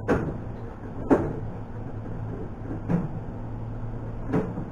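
Short sharp knocks and clunks of tools and parts being handled, four in all, the loudest about a second in, over a steady low hum.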